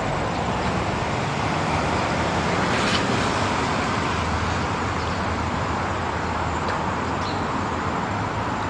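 Steady road traffic noise from passing vehicles, a continuous even wash.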